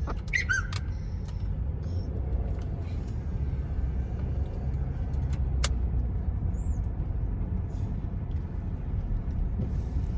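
Steady low road and engine rumble of a car heard from inside the moving vehicle, with a few short high chirps and clicks in the first second.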